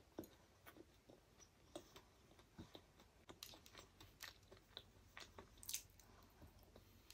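Faint close-up chewing of a soft Indian sweet: irregular wet mouth clicks and smacks, a few each second, with the loudest one about two-thirds of the way through as she bites again.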